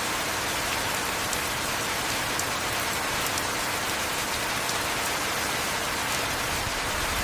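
Heavy rain falling steadily, a dense even hiss with a few faint sharp drop ticks scattered through it.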